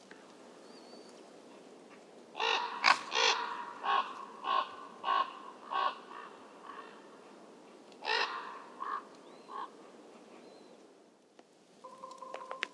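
A crow-family bird calling: a quick run of about seven caws, then a pause and three more.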